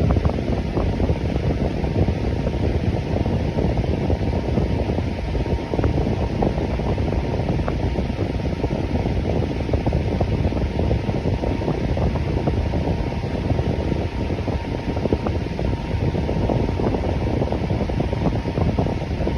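Electric fan running steadily: an even rushing of air, deepest and strongest in the low range, with a faint steady hum on top.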